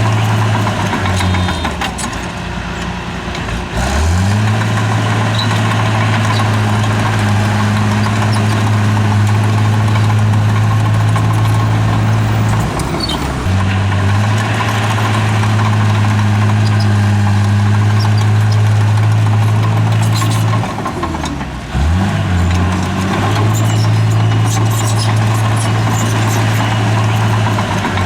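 Heavy earthmoving machine's engine running hard and steady. It drops in speed and climbs back up about 1 to 4 seconds in, again around 13 seconds, and again around 22 seconds, as the machine's load changes.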